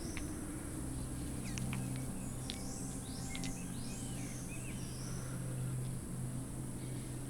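Nature ambience of many birds chirping in short rising and falling calls, over a steady low hum.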